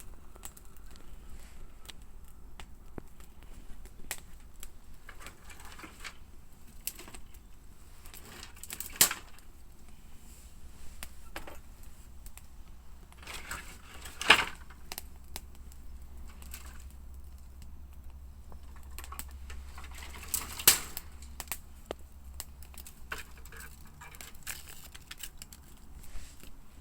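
Wood fire crackling, with irregular small snaps and three louder pops at intervals, over a low steady rumble.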